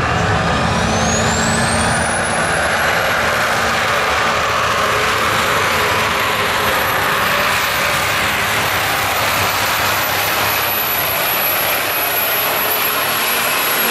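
Super modified four-wheel-drive pulling truck's engine running hard at full throttle down the track, with a high whine that rises over the first couple of seconds and then holds steady.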